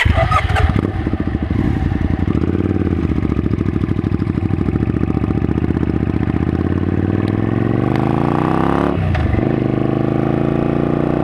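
Suzuki Intruder VS600's V-twin engine running just after starting, a steady pulsing idle. From about seven seconds in the revs rise, drop sharply near nine seconds, then climb again.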